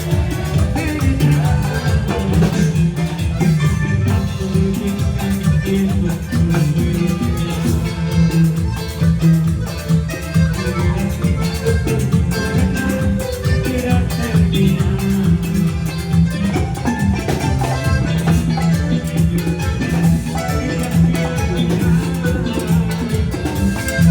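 A band playing music, with busy, regular percussion over a steady bass line.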